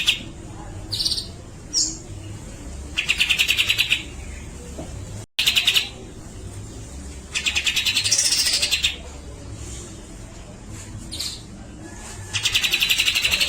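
Cucak jenggot (grey-cheeked bulbul) singing gacor: four loud bursts of rapid rattling chatter (besetan), each about a second long, with a few short high whistled notes between them. A steady low hum runs underneath.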